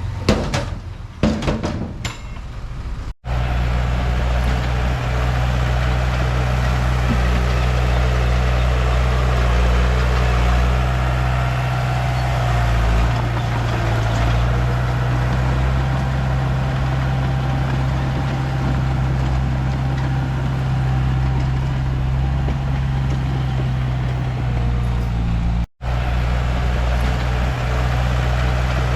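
Heavy diesel engine of earth-moving machinery running steadily at a constant pitch, with a few sharp knocks in the first three seconds. The sound drops out abruptly twice, briefly, about three seconds in and near the end.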